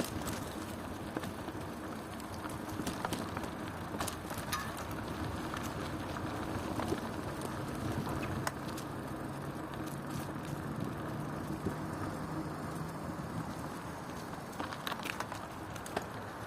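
Bicycle riding along a road: steady rolling noise with scattered small clicks and rattles.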